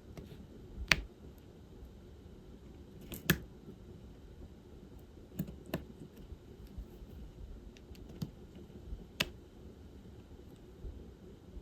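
Scattered sharp plastic clicks and taps of diamond painting work: a drill pen setting resin drills on the canvas and small plastic tools knocking. About six of them, irregular, the loudest about a second in, a third of the way in, and near the end.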